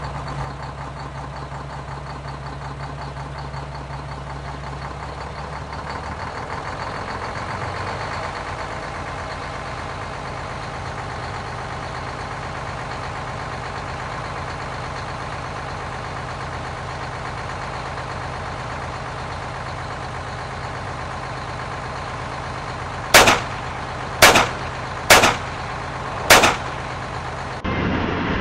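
Car driving, with steady engine and road noise and a low hum that stops about six seconds in. Near the end come four loud gunshots, about a second apart.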